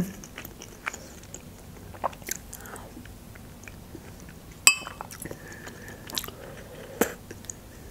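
Person chewing and eating borscht from a spoon, with soft wet mouth sounds and a few sharp clicks spread through, the loudest about halfway.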